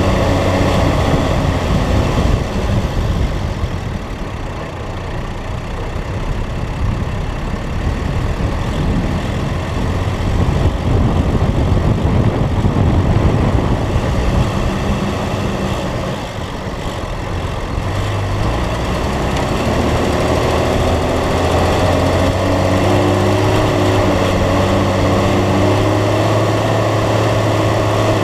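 Four-wheel-drive's engine running as it drives along beach sand. A rushing of wind and tyre noise is strongest through the middle, and the engine note settles to a steady drone in the last third.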